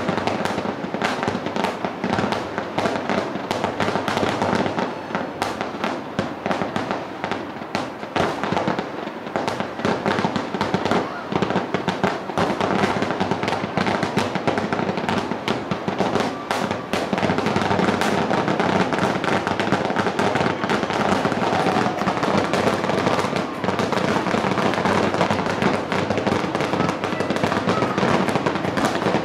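Fireworks show finale: aerial shells bursting in a rapid, continuous barrage, the bangs and crackle overlapping with hardly a pause.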